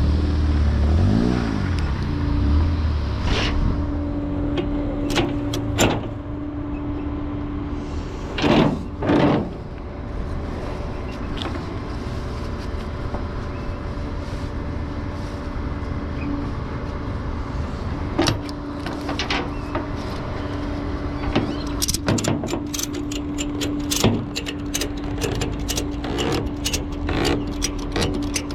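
A vehicle engine idling with a steady hum. Two short loud swells come about 8 and 9 seconds in, and scattered clicks and taps follow in the last third.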